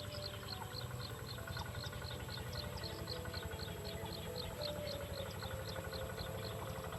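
Small bird's high-pitched chirps repeating about four times a second over a steady low rumble.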